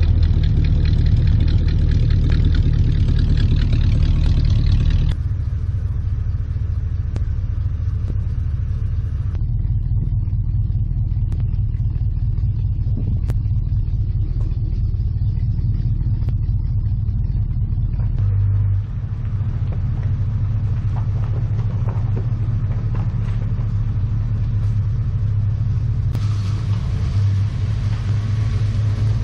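1959 Dodge Coronet's engine running steadily with a low rumble just after a cold start, first idling at the tailpipe and then moving the car slowly forward. The sound shifts abruptly a few times along the way.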